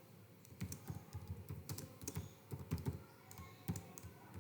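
Typing on a computer keyboard: irregular quick key clicks, several a second, as HTML is entered into an editor.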